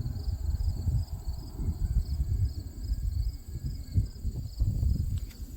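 Crickets chirping in an even, pulsing rhythm, with a steady high insect trill above them, under a loud uneven low rumble on the microphone.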